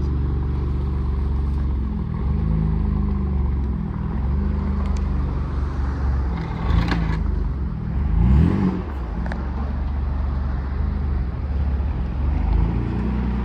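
BMW M4's S55 twin-turbo inline-six running through a newly fitted AWE Tuning Switch Path aftermarket exhaust, idling steadily with a brief rev about eight seconds in.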